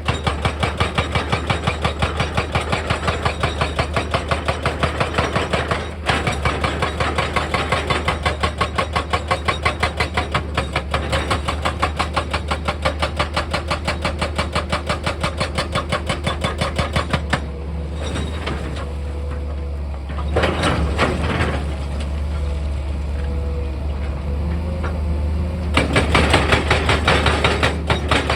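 Excavator engine running under rapid, evenly repeated hammering strokes. The hammering stops about 17 seconds in, leaving the engine running, and starts again about 26 seconds in.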